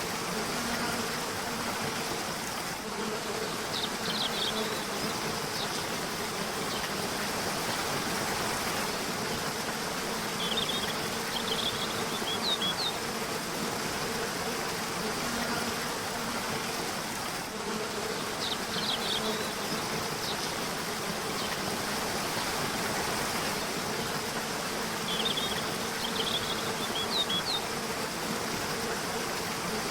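Steady rush of flowing river water, with four short bursts of high bird chirping spread through it and a faint low wavering hum underneath.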